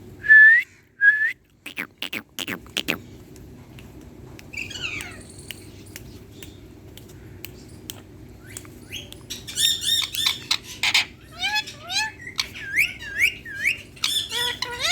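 Indian ringneck parakeet whistling and chattering: two loud short rising whistles near the start and a few sharp clicks, then from about halfway a quick run of chirps, squeaky calls and rising whistles.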